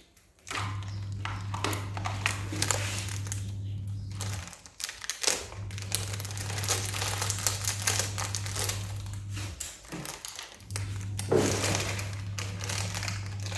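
Plastic snack packaging crinkling and rustling as it is cut and torn open. A steady low hum runs underneath and drops out twice.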